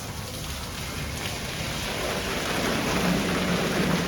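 Automatic car wash spraying water, a steady rain-like hiss that grows louder about halfway through, with a faint low hum near the end.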